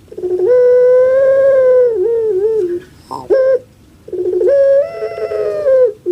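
Puter pelung dove (Streptopelia risoria) calling: two long coos, each starting with a quick stutter, then a held note of over a second that ends in a few wavering dips, with a short single note between them.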